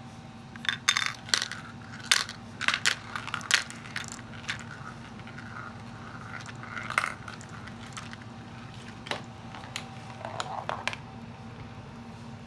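Glass marbles clicking and clacking against each other and a marble-run track, many hard clicks in quick succession for the first few seconds, then a few scattered clicks, over the steady hum of an air conditioner.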